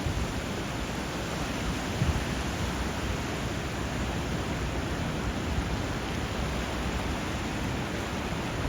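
Steady rushing of water where river flow meets sea surf, an even wash of noise with no distinct wave breaks. A soft low thud about two seconds in.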